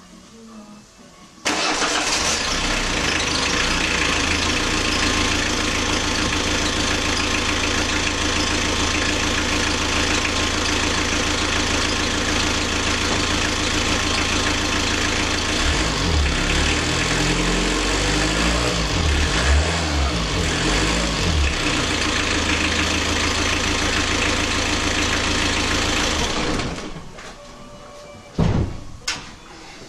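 Renault Kangoo's 1.9 four-cylinder diesel engine catching at once about a second and a half in, then running steadily for about 25 seconds before being switched off. It runs evenly on a freshly fitted, correctly timed timing belt, the sound its owner calls the one everyone wants to hear.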